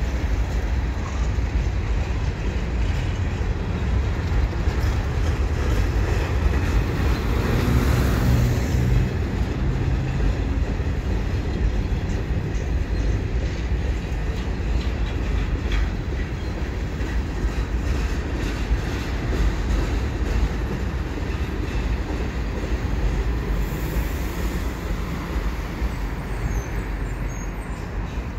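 Boxcars of a CN freight train rolling over a steel girder bridge: a steady, heavy rumble of wheels on the rails.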